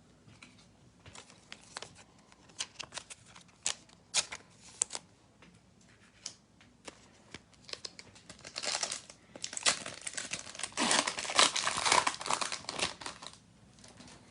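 Trading cards handled with scattered light clicks and taps, then a foil trading card pack crinkling for several seconds as it is torn open, from about eight and a half seconds in until shortly before the end.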